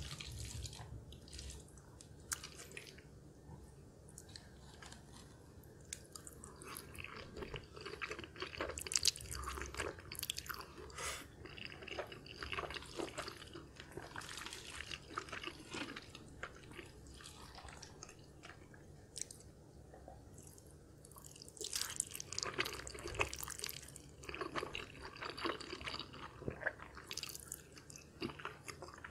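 Close-miked chewing of creamy, cheesy instant fire noodles, wet mouth sounds and small clicks coming in clusters with quieter pauses between mouthfuls.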